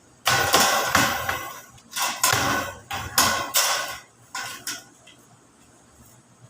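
Plain sheet metal being struck with a hammer while it is bent: about ten ringing metallic blows in an uneven run.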